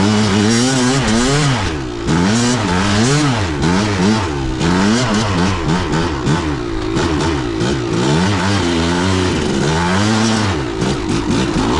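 Kawasaki KDX200 two-stroke single-cylinder dirt bike engine revving up and falling back over and over as it is ridden through snow. Near the end several sharp knocks break in among the engine note.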